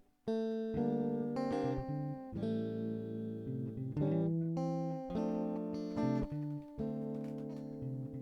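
Guitar playing a run of chords and picked notes in an instrumental passage, with a brief break in the sound right at the start.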